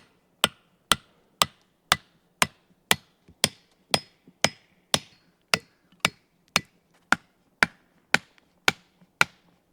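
Steady hammer blows on wood, about two a second, each a sharp knock with a short ring, as wooden pegs are being made.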